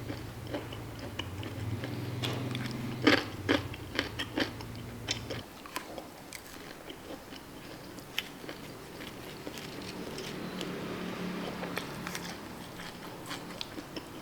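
A person biting into and chewing crunchy food, with a cluster of sharp crunches about three to four and a half seconds in.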